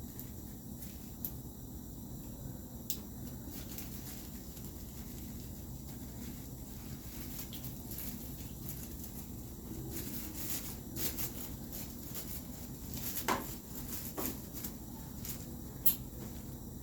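Scattered light clicks and rustles of small items being handled and set down, over a steady low room hum; the clicks come mostly in the second half.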